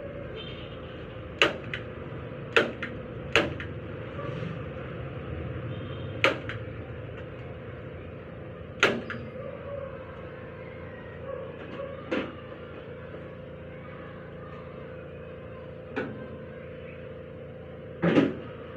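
Sharp knocks and clicks from hand work on a seat, about eight of them at uneven intervals, the last near the end the loudest, over a steady low hum.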